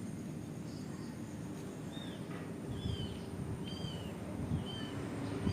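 A run of short, high-pitched animal calls, about eight thin chirps or squeaks that bend in pitch, coming irregularly over a steady low background noise.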